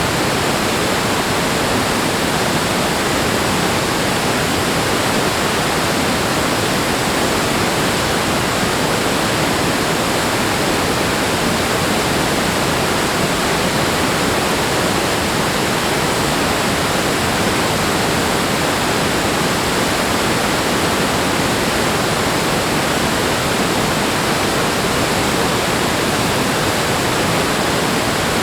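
Water rushing steadily, a loud even roar with no breaks, swells or changes.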